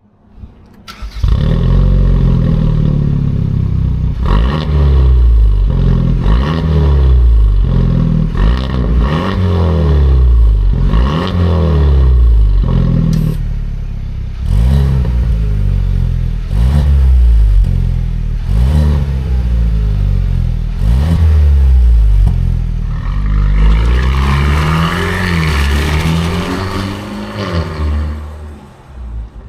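Genesis G70 2.0-litre turbocharged four-cylinder engine being free-revved through an aftermarket electronically valved exhaust with custom tips. It blips up and falls back over a dozen times in quick succession, then revs longer and brighter near the end.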